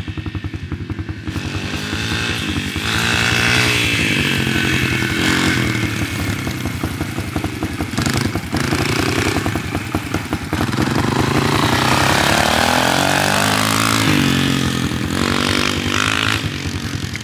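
Dirt bike engine running and being revved, its pitch rising and falling several times.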